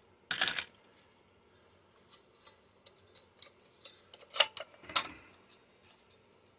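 Small metal parts of a microwave magnetron clinking and rattling as they are handled by hand: a short clatter about half a second in, light scattered ticks, then two sharp metallic clicks about half a second apart after four seconds.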